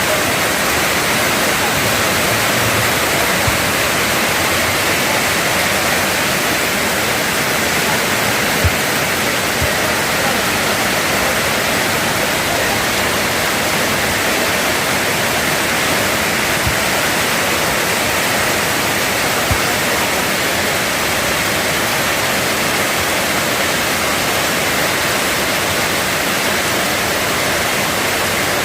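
Heavy rain pouring steadily, an even, loud hiss, with a few faint knocks.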